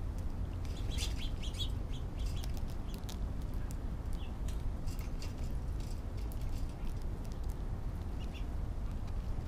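Short, high bird chirps: a little cluster about a second in, then single ones later. Under them come sharp little clicks of a squirrel cracking seeds right at the microphone, over a steady low rumble.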